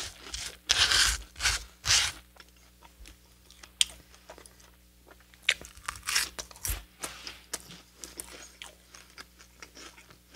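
Close-miked crunchy bites and chewing of a Hot Cheetos chicken sandwich piece: loud crunches near the start and again about six seconds in, with quieter chewing clicks between.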